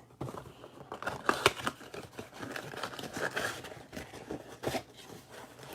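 A trading-card blaster box being torn open by hand: its plastic wrap crinkles and the cardboard rips in an irregular run of crackles, with one sharper tear about a second and a half in.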